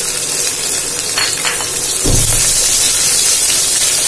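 Chopped onion sizzling in hot mustard oil with cumin seeds as it goes into the pot and is stirred with a wooden spatula: a steady frying hiss, with a dull thump about two seconds in.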